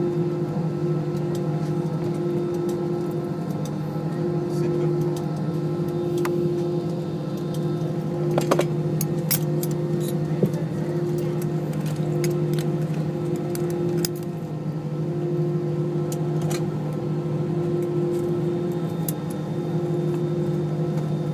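Steady drone of an Airbus airliner's Rolls-Royce engines heard inside the passenger cabin, holding several constant low tones without rising toward takeoff power. A few sharp clicks and rattles come through around the middle.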